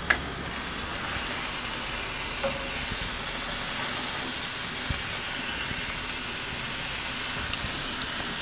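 Raw beef burger patties and a bacon-wrapped pineapple ring sizzling steadily on the hot, greased cast-iron griddle plate of a gas grill.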